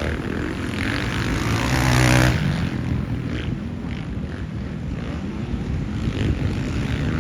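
Motocross bike engines running on the race track, revving and easing off, with one engine rising loudly about two seconds in.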